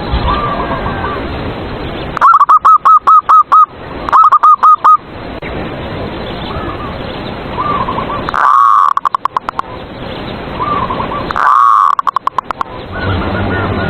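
Zebra doves (perkutut) cooing: four loud bursts of quick, stuttering repeated coos, with fainter coos from other doves in between.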